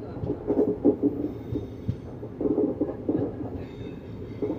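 Passenger train running on the track: a steady low rumble with uneven knocking and clatter from the wheels and carriages.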